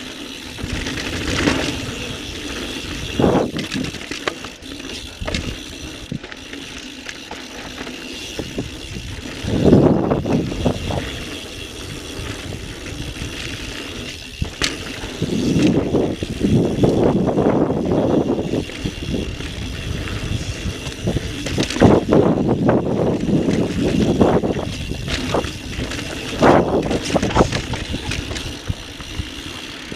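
A carbon full-suspension mountain bike, a 2017 Intense Recluse, being ridden over a dirt trail: running tyre noise with irregular knocks and rattles from the bike over rough ground. It gets louder around ten seconds in and again through most of the second half.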